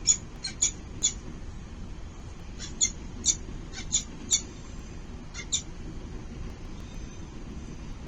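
Falcons calling at the nest: about a dozen short, high-pitched squeaks in small clusters over the first six seconds, over a steady low background rumble.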